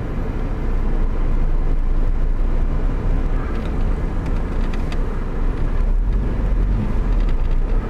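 1988 Ford Fiesta Mk2's 1.1-litre engine running as the car drives along, with road noise: a steady low rumble.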